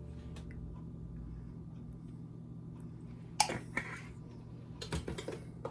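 A few light clicks and taps of kitchen utensils on a bowl of cornbread batter, about three and a half seconds in and again near the end, over a low steady hum.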